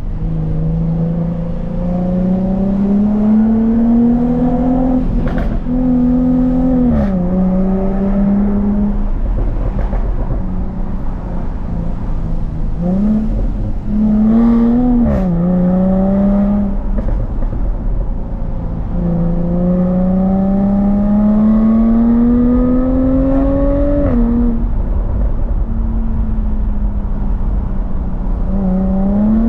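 Jaguar F-Type S supercharged 3.0-litre V6 engine under way, revving up in long, slow climbs in pitch (near the start, briefly about halfway, and again for about five seconds two-thirds in), each ending in a quick drop in revs, with steadier running between.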